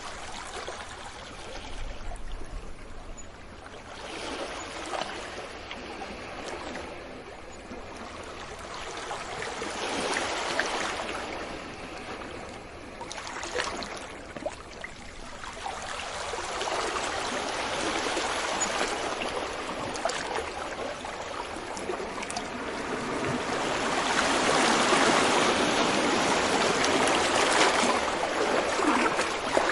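Sea waves washing onto a beach: a steady rushing of surf that swells and falls back every few seconds, with the biggest surge in the last few seconds.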